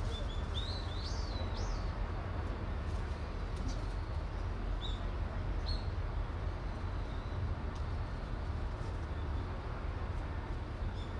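A few short bird chirps, clustered near the start and again about five seconds in, over a steady low rumble.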